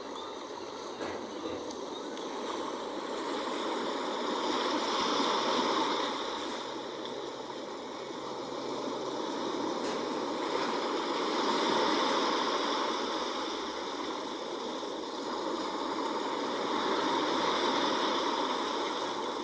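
Sea waves washing ashore, the surf noise swelling and fading three times, about every six seconds.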